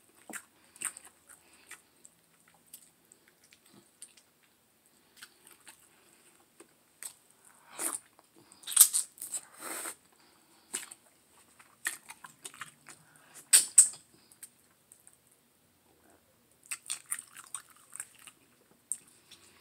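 A person eating a sauced baked turkey leg by hand close to the microphone: wet chewing and lip smacks, with a cluster of louder smacks about halfway through and again a little later.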